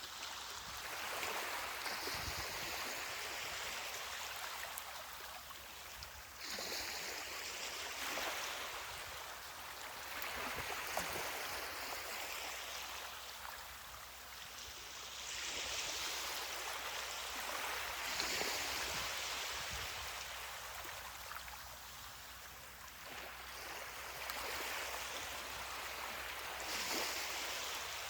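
Small ocean waves breaking and washing up the shore, a steady hiss that swells and eases again every few seconds.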